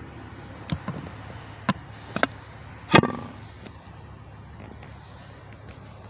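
Five or six sharp bangs in the first half, the loudest about three seconds in with a short ring, over the steady low hum of idling truck engines.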